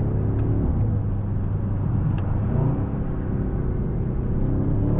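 Mercedes-AMG S63 E Performance's 4.0-litre twin-turbo V8 heard from inside the cabin while driving: a steady low grunt, blended with the engine sound played through the interior speakers, its pitch shifting slightly a couple of times.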